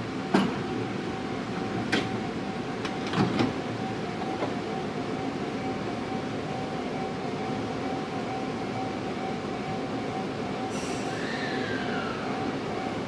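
Tobu Tojo Line electric commuter train running, a steady rumble with a constant hum, with a few sharp knocks in the first few seconds. About eleven seconds in there is a brief hiss, then a whine that falls in pitch.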